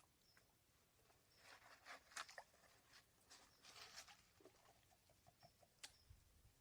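Faint rattle and swish of gravel and water being worked in a gold pan, with a cluster of light clicks and scrapes a couple of seconds in and a few lone ticks after.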